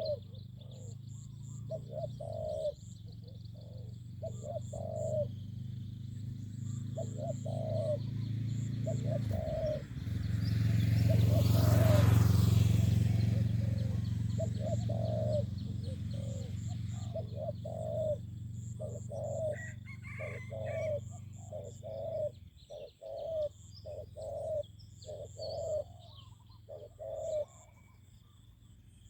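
Spotted doves cooing in steady, repeated phrases, with high chirping of small birds. An engine drone swells to its loudest about the middle and cuts out about three-quarters of the way through.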